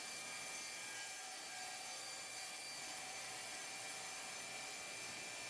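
Table saw running, heard faintly as a steady hum with a thin high whine that does not change in pitch.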